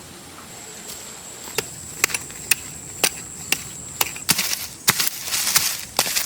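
A series of sharp knocks, about two a second, starting a second and a half in; from about four seconds in they come with short bursts of scraping noise.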